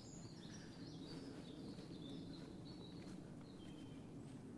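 A songbird singing a quick, jumbled warbling song, faint over a steady low background rumble.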